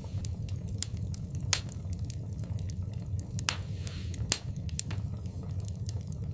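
Wood fire burning in a fireplace: a steady low rumble with irregular sharp crackles and pops, the loudest about a second and a half, three and a half, and four and a quarter seconds in.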